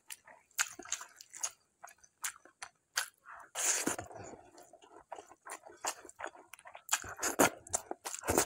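Close-up mukbang eating sounds: chewing and lip smacks with quick wet clicks as dhido and mutton curry are eaten by hand. A longer noisy stretch about three and a half seconds in, and a run of louder smacks near the end.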